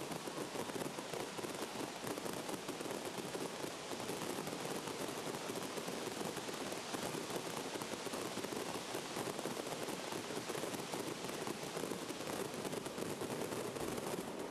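Large outdoor crowd applauding, a steady dense clatter of many hands clapping.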